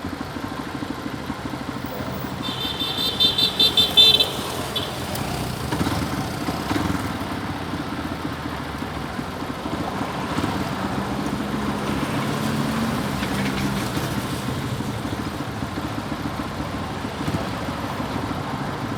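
Motorcycle engine running in traffic with road noise. A vehicle horn sounds in a rapid run of short beeps about two and a half seconds in, lasting a second and a half; it is the loudest thing here.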